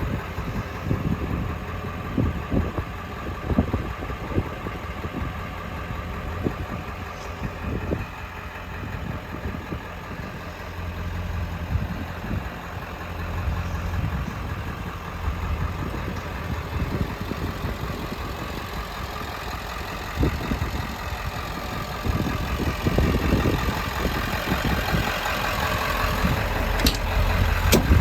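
A Ford 7.3-liter Power Stroke turbo diesel idling steadily, with occasional short knocks over the low hum.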